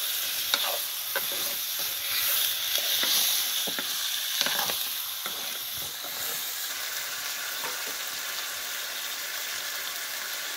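Chicken pieces sizzling as they fry in a metal pan, with a spatula scraping and knocking against the pan as they are stirred. The knocks thin out after about five seconds, leaving mostly the steady sizzle.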